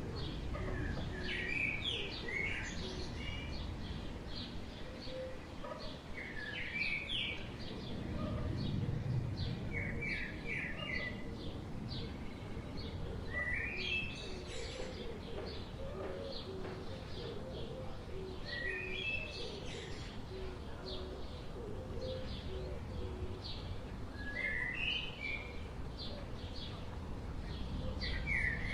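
Birds chirping and singing in short phrases that recur every few seconds, over a steady low rumble of outdoor background noise.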